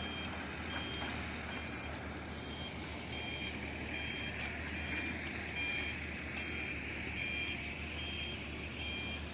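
An electronic warning beeper sounding a steady run of short beeps that alternate between a higher and a lower pitch, over a steady low engine hum, typical of a reversing or warning alarm on heavy machinery.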